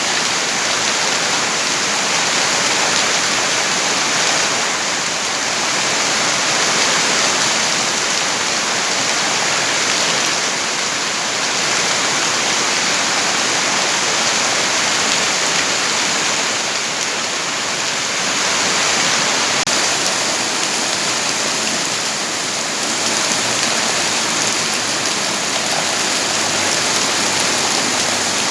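Steady heavy rain, a dense even hiss of falling water with gentle slow swells in loudness.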